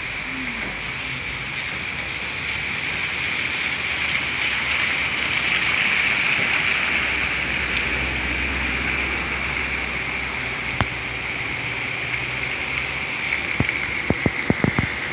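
Steady rain falling, a continuous hiss of water. A low rumble swells and fades around the middle, and a few sharp ticks come near the end before the sound cuts off suddenly.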